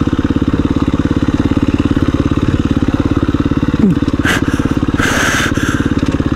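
Single-cylinder four-stroke engine of a KTM 350 EXC-F dirt bike running steadily during a downhill descent, with a short burst of hiss about five seconds in.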